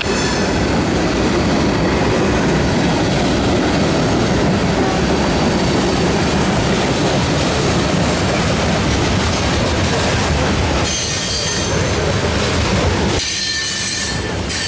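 Freight cars of a mixed freight train rolling past: a loud, steady rumble and clatter of steel wheels on rail. A thin, high squeal comes in twice near the end.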